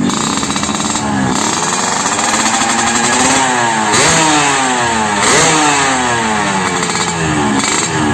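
Yamaha RX-King two-stroke single-cylinder motorcycle engine revved through an aftermarket racing exhaust, its throttle blipped several times so the pitch jumps up and slides back down after each blip, with a crisp exhaust note.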